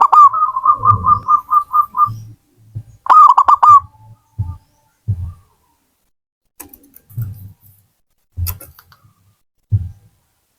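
Zebra dove (perkutut) cooing: a fast run of about a dozen even, clear coos in the first two seconds, then a second, shorter phrase about three seconds in.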